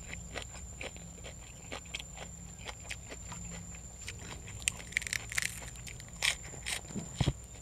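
Close-up eating sounds: a person chewing and crunching food with irregular small clicks and wet mouth noises, with a few louder crunchy bites about five to seven seconds in.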